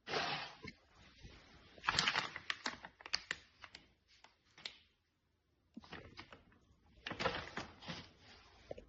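Irregular clicks and rustles of something being handled at close range, coming in two clusters with a brief quiet gap between them.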